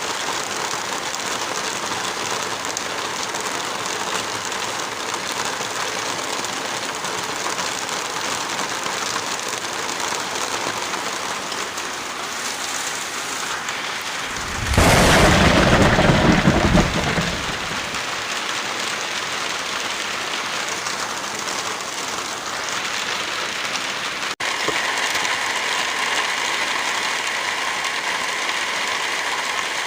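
Heavy rain falling steadily. About halfway through, a loud burst lasting about three seconds, strongest in the low end, rises over the rain. Later the rain's sound changes abruptly.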